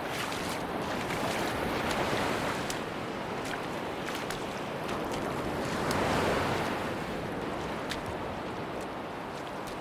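Sea waves washing onto a beach, swelling about two seconds in and again around six seconds in, with light fizzing clicks over the steady surf.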